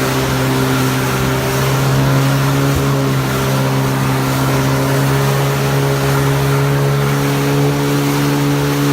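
Jet ski engine running at a steady, high speed, its drone holding an even pitch over the rush of wind and water.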